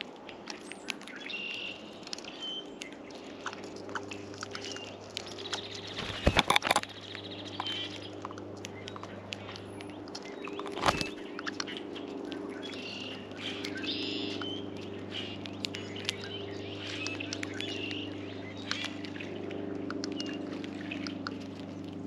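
Small birds chirping at a feeder, with many light clicks and taps of birds pecking and landing on it. A few louder knocks come about six seconds in and again near eleven seconds, over a steady low hum.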